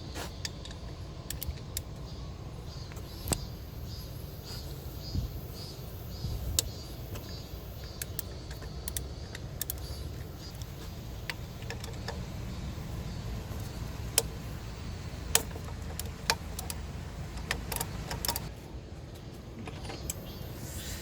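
Scattered metallic clinks and taps of hand tools on metal, irregular and sharp, over a low steady rumble.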